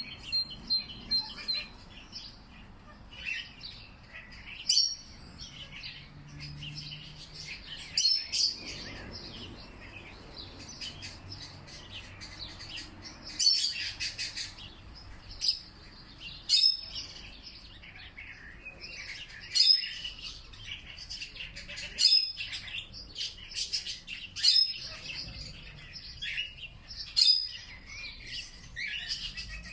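Wild birds chirping and singing, several calls overlapping, with one louder call coming again about every two to three seconds.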